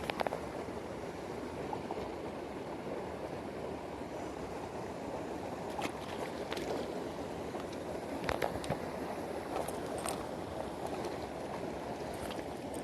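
Mountain stream flowing steadily, with a few sharp clicks and knocks scattered through it.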